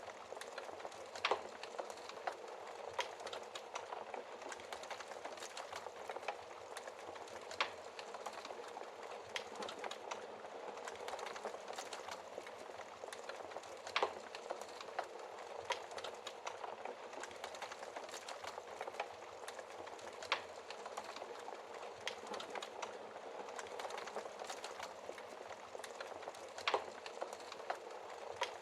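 Wood fire burning in a fireplace: a steady dense crackle with a handful of sharper, louder pops of burning wood every few seconds.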